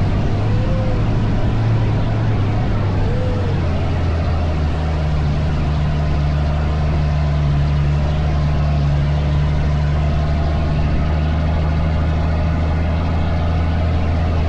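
Dune buggy engine running steadily under way, its note changing about five seconds in.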